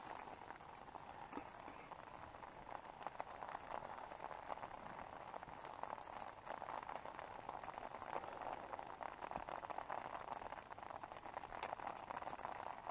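Steady rain falling on a tent, heard from inside as a dense, even patter of small drop hits.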